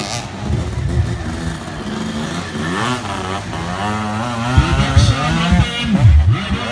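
Motocross motorcycle engines revving, more than one at once, their pitch climbing and dropping repeatedly, with quick sharp rises and drops in the second half.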